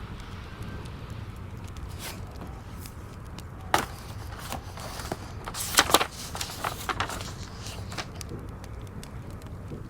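Wood fire crackling in a fireplace: a steady low rumble with scattered sharp pops and snaps, several close together about six seconds in.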